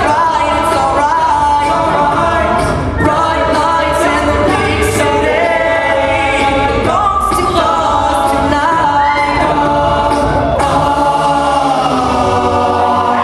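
A cappella vocal group singing a song together, a sung melody over voices holding chords and a steady low bass line, with light vocal-percussion ticks.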